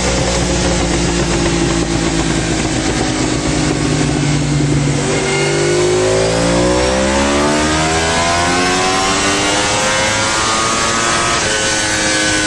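Yamaha R1 inline-four sportbike engine through an aftermarket exhaust. It holds a steady note for about five seconds, then climbs steadily in pitch for about six seconds as it accelerates, and levels off near the end.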